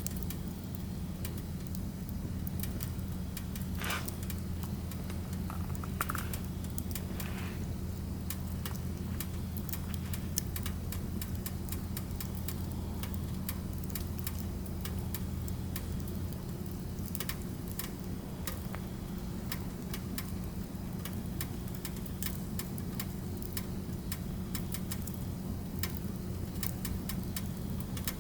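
Firewood burning, crackling and popping in irregular sharp clicks over a steady low hum. A few brief whistling hisses rise from the fire about four, six and seven seconds in.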